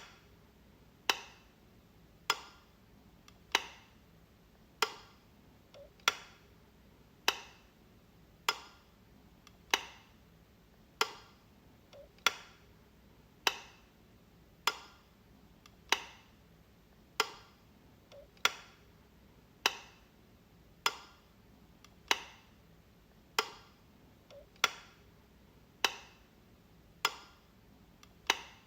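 Light switch clicking, one sharp click about every 1.2 seconds in a steady rhythm, each fading quickly, some with a faint softer tick just before.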